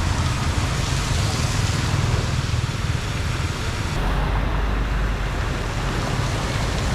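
Floodwater rushing steadily down into a storm drain, a continuous hiss over a strong low rumble. About four seconds in the hiss thins and the rumble gets deeper.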